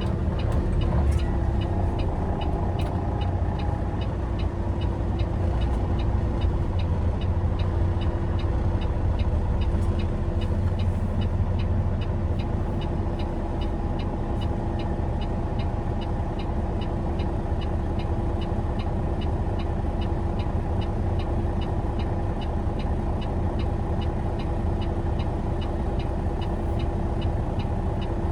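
Semi truck cruising on the highway, heard from inside the cab: a steady engine and road drone with a constant hum, and a faint regular ticking of about two to three ticks a second.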